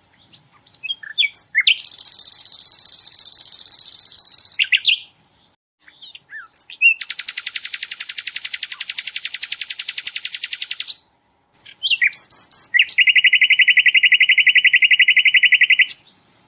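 Sikatan londo flycatcher singing three long, very fast trills, each opened by a few short scattered notes; the first trill sits very high, the second spreads lower and wider, and the last, the lowest, is pitched well below the others.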